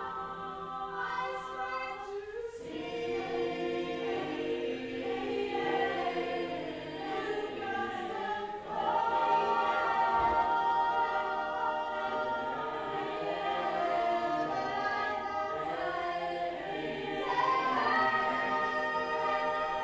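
A choir singing unaccompanied, many voices holding sustained, overlapping notes in harmony that shift every few seconds.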